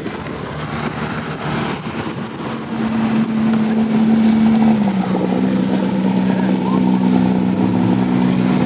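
Porsche 911 flat-six engine running at a steady pitch as the car rolls slowly past. It grows louder about three seconds in, and its note shifts once about five seconds in.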